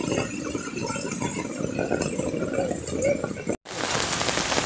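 Rain falling, with people's voices faintly mixed in. About three and a half seconds in, the sound cuts out for a moment and gives way to a steady hiss of heavy rain pouring onto wet ground.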